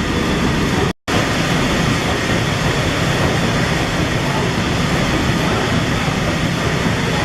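Liberty ship's triple-expansion steam engine running in its engine room: a loud, steady mechanical noise, cut by a split-second dropout about a second in.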